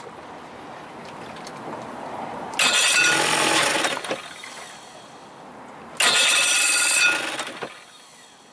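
1975 Evinrude 40 hp two-cylinder two-stroke outboard running rough on its top cylinder. It surges loud twice, for about a second and a half each time, and drops back between, then falls away near the end. The top cylinder is faltering; the owner later says it sounds almost like it is running out of gas.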